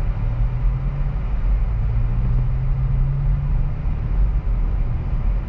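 2023 Acura Integra's 1.5-litre turbocharged four-cylinder engine pulling away in first gear as the clutch is let out, heard from inside the cabin as a steady low drone. Its pitch rises a little about two seconds in and drops back about four seconds in.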